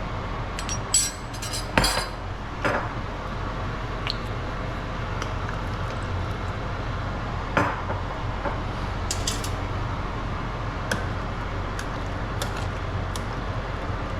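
Kitchen utensils clinking and knocking against pots and dishes: a handful of sharp clinks, the loudest cluster about two seconds in, over a steady low background hum.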